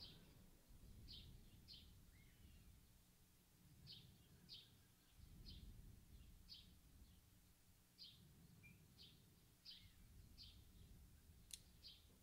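Near silence: faint room tone with a small bird's brief high chirps repeating irregularly, about one a second, and a single faint click near the end.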